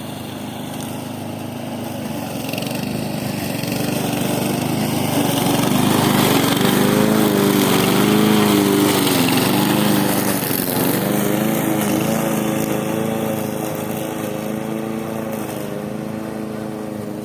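Small engine of a grass-cutting machine running, its engine note wavering up and down as it works. It grows louder to a peak about halfway through, then eases off.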